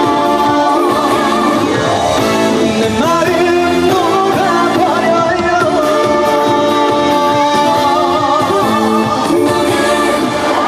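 Trot singer singing live over an amplified backing track, as part of a dance medley; the held notes waver with vibrato.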